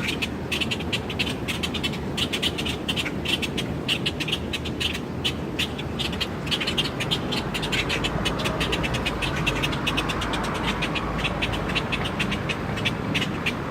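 Small birds chirping in quick, continuous short notes, several a second, over a steady low rumble of city traffic.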